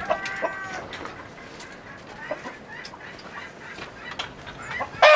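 Chickens clucking: a drawn-out, pitched hen call in the first second, scattered quieter clucks, then a run of louder, sharp clucks at the very end.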